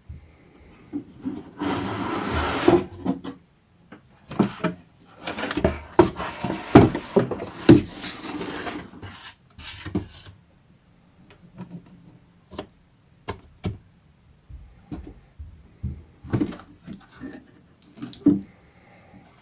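Unboxing handling noises: packaging rubbed and slid in two rustling stretches, then scattered light knocks and clicks as parts are handled and set down.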